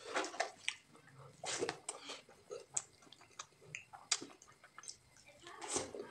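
Close-up eating sounds of rice, pumpkin curry and fried egg eaten by hand: wet chewing and lip smacks, mixed with the squish of fingers working rice into the curry. The sounds come as irregular smacks and clicks, with a longer noisy stretch near the end.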